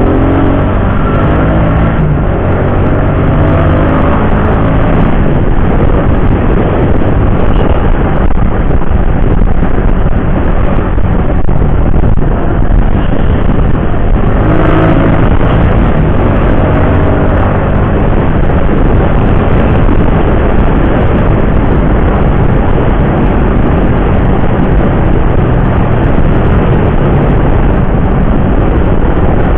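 Motorcycle ridden at speed on the highway, with wind rushing loudly over the microphone. The engine's pitch rises as it accelerates near the start and again about halfway through.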